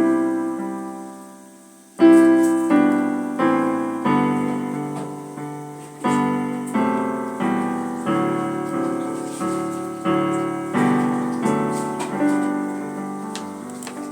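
Piano-voiced keyboard playing open-voiced chords: one chord struck and left to ring for about two seconds, then a steady run of block chords struck about every 0.7 s, each fading before the next.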